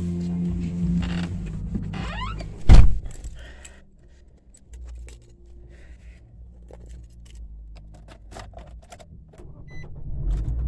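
A car's trunk lid slammed shut with one loud thud about three seconds in, followed by light clicks and knocks.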